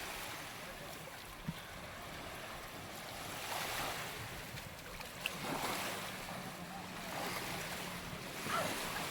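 Sea waves washing onto a sandy beach, surging up every couple of seconds, with wind buffeting the microphone.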